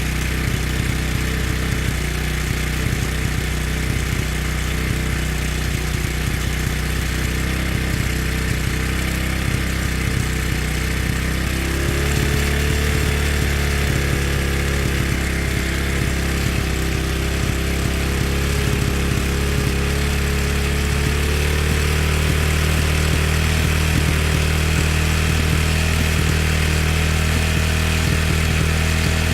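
Motorcycle engine running steadily, its tone shifting about twelve seconds in and again about ten seconds later.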